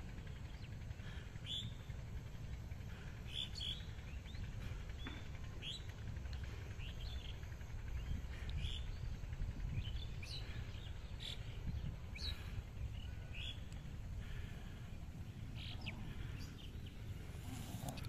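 Birds calling in short, scattered chirps, over a steady low rumble.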